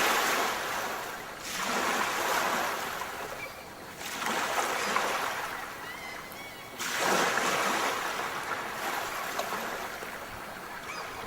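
Sea waves breaking and washing up on a shore, three surges that each rise and then fade away.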